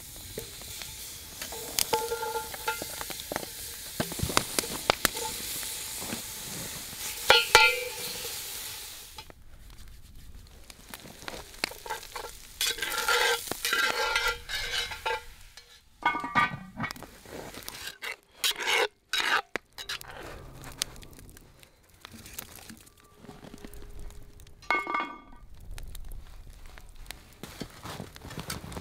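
Ground meat and onion sizzling in a hot cast-iron Dutch oven over a campfire, with small clicks; the sizzle cuts off suddenly about nine seconds in. After that a utensil stirs and scrapes in the pot in short separate bouts.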